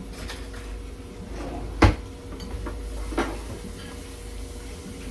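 Kitchen clatter: one sharp, loud knock of cookware or a cupboard about two seconds in and a lighter knock about a second later, with a few faint clicks, over a steady low hum.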